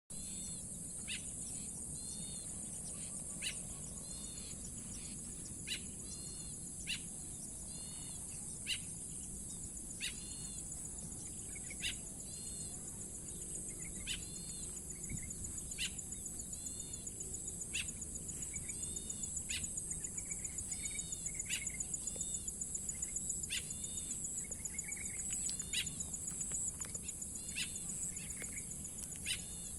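A steady, high-pitched insect drone, crickets or cicadas, pulses throughout. Short chirped bird calls sound every second or two over it.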